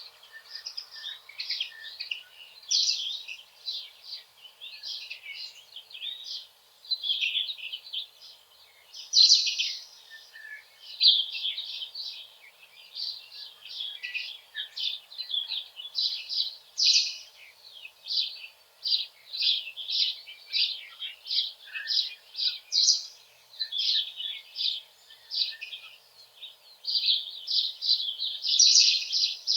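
Songbirds singing: a steady, dense stream of short, high chirps and trills.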